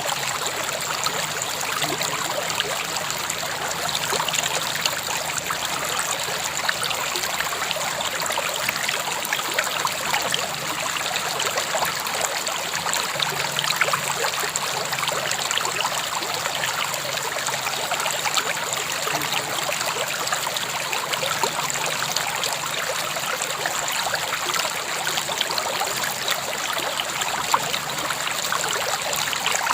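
A river flowing and trickling steadily, water splashing over stones in a continuous rushing babble.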